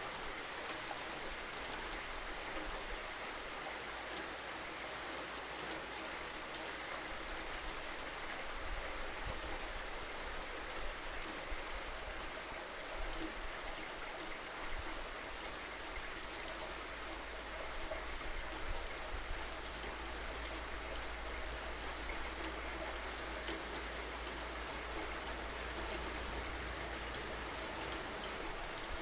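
Steady rainfall, an even hiss of drops with a constant low rumble underneath.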